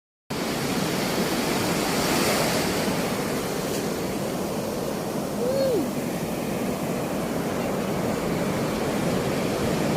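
Ocean surf washing steadily. About halfway through, a brief call falls in pitch.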